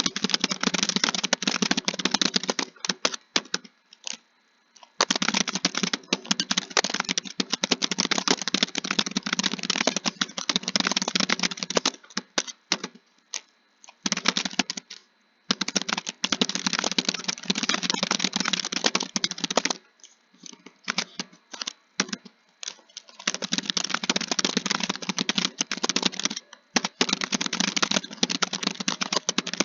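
Fast typing: a dense clatter of keystrokes in runs of several seconds, broken by short pauses about 4 seconds in, from about 12 to 15 seconds, and from about 20 to 23 seconds.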